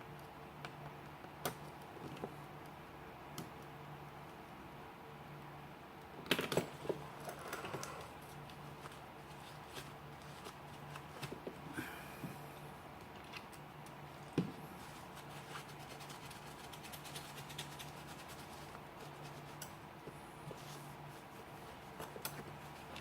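Small metal multi-tool parts being handled: scattered light clicks and scraping, with a busier run of clicks and scrapes about six seconds in and a sharp click near the middle, over a steady low hum.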